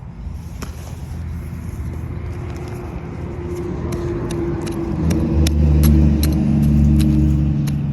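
A motor vehicle engine running and getting louder, dropping to a lower, heavier pitch about five seconds in, with light sharp clicks over it.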